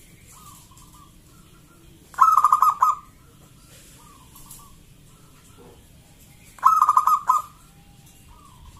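Zebra dove (perkutut) cooing: two loud phrases of quick, stuttering coos about four and a half seconds apart, with fainter single coos in between.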